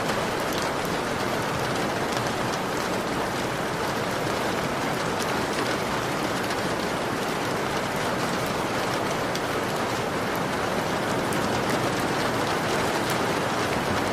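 Heavy rain pattering steadily on a window, a dense even hiss with many small sharp drop ticks.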